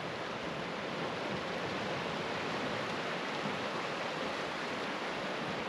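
Steady, even rushing of water, a continuous hiss with no separate waves or splashes.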